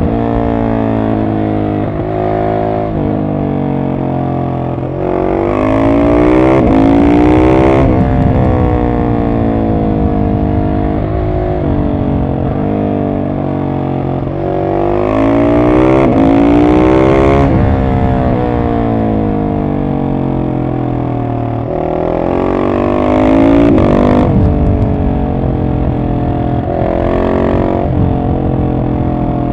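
Husqvarna 701 SM's single-cylinder engine through an Arrow decat exhaust, pulling hard in four short bursts of throttle, its pitch rising about 5, 15, 22 and 27 seconds in. Between the bursts the revs fall away in long stretches with the throttle closed.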